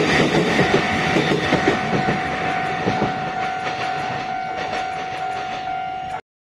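Taiwan Railway EMU900 electric multiple unit running past over the rails, its wheels clacking and rumbling as it slowly eases off, with a steady tone over the top. The sound cuts off abruptly about six seconds in.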